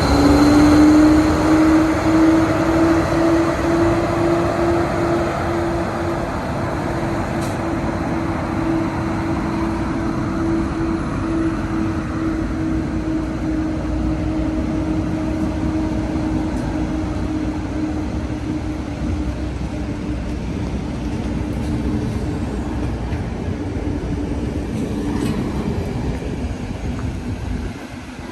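A train running close by with a loud, steady mechanical hum over rumbling wheel noise; the hum's pitch rises slightly at first, then slowly sinks, and the sound drops away near the end.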